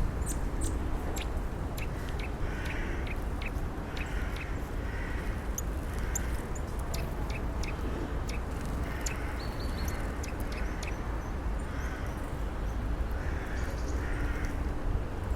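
Birds calling: short harsh calls every second or two, mixed with many sharp high chips and ticks, over a steady low rumble.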